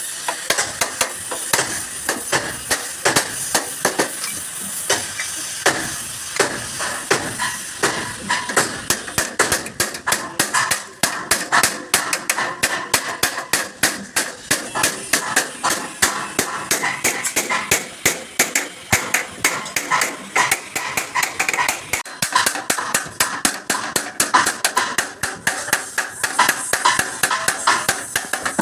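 Hammer beating on the steel sheet metal of a truck cab, rapid blows several a second with a metallic ring, knocking out accident dents.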